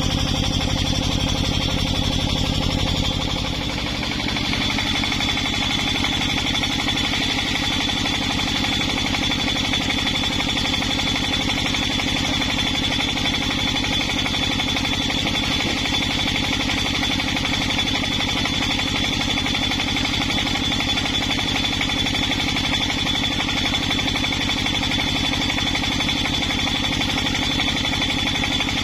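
A small engine running steadily at constant speed, its low rumble easing a little about four seconds in.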